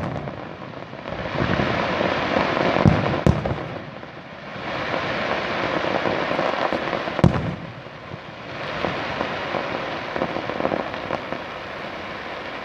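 Fireworks display: three waves of dense crackling bursts, each lasting two to three seconds, with sharp bangs about three seconds and seven seconds in.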